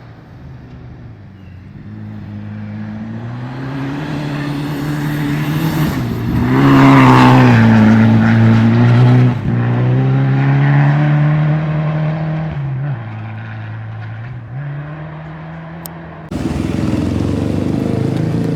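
Rally car engine at full throttle, growing louder as the car approaches and peaking about seven seconds in as it passes, its pitch bending down. It eases off briefly twice near the end, then the sound cuts abruptly to a different, rougher engine noise.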